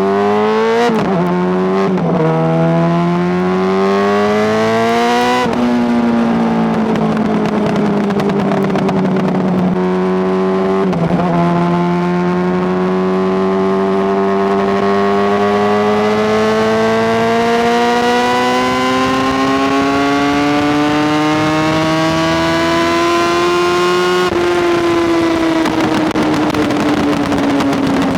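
Honda CBR600RR's inline-four engine under way: it revs up hard through a few quick upshifts near the start, each shift dropping the pitch, then holds a steady cruise. From about a third of the way in it climbs slowly and evenly in revs for a long stretch, easing off near the end.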